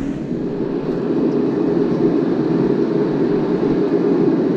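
Shop heater running with a loud, steady low rumble that rises slightly about a second in.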